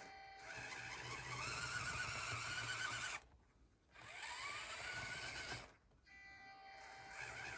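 RGT Defender RC crawler's small electric motor and geared drivetrain whining as it climbs a steep 40-degree ramp, the pitch rising with throttle. The whine cuts out twice briefly, about three seconds in and again near six seconds, as the throttle is let off.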